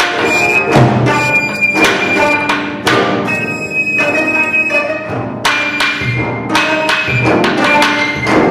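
Korean gayageum ensemble of 25-string and 18-string gayageum playing dense plucked figures, with percussion strokes and a high sustained line from the sogeum flute through the middle.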